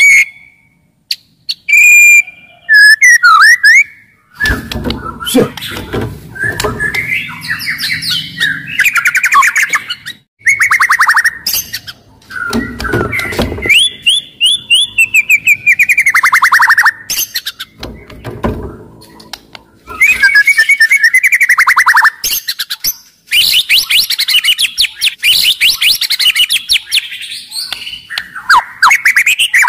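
White-rumped shama (murai batu) singing loudly and vigorously, in varied phrases of rapid rattling trills, falling sweeps and high whistled notes, with short pauses between phrases. Bursts of low rumbling noise sit under some of the phrases.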